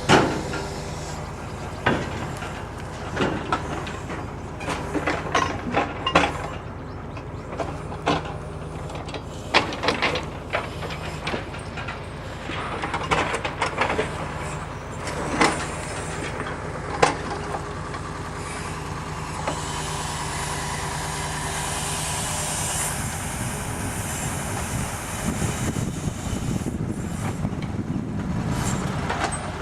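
Timber truck's diesel engine running steadily while logs are loaded, with a series of sharp knocks and clanks of wood striking the load during the first half. Later a hissing rush builds up over the engine.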